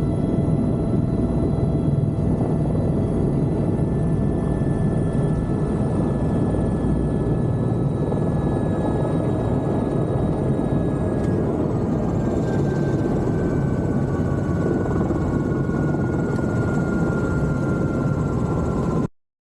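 Helicopter running, a steady loud rotor and engine rumble with a high turbine whine. The whine slowly sinks in pitch, and the sound cuts off suddenly near the end.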